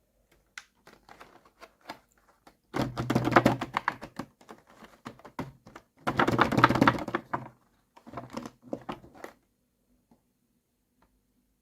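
Packaging being handled and opened by hand: scattered small clicks, then three louder stretches of rapid crackling and clicking, with little after about three-quarters of the way in.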